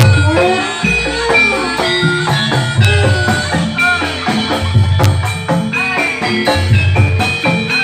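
Javanese gamelan music for a barongan dance: hand drums under struck, tuned metal keyed instruments playing a busy, repeating pattern of short ringing notes.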